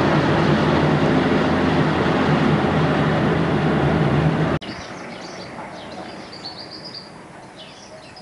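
Peugeot 106 running down a mountain road, with steady engine hum and road noise heard from inside the car. It cuts off abruptly about halfway through, and small birds chirp over a quiet background.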